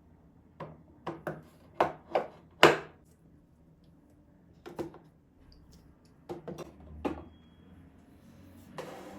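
A series of sharp knocks and clacks of household items being handled and set down, in irregular groups, the loudest about two and a half seconds in. Near the end a soft steady hiss starts.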